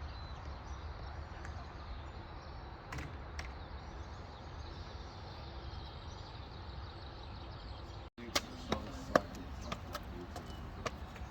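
Outdoor ambience with a steady low rumble. About eight seconds in an abrupt cut is followed by a run of sharp taps and knocks, the loudest a little after nine seconds.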